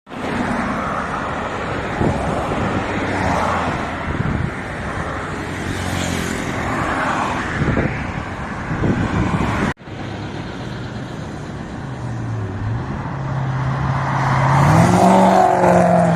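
Street traffic with vehicle engines running and road noise, cut off abruptly about ten seconds in and then resuming. Near the end, one engine's tone rises in pitch and falls back as a vehicle revs or passes.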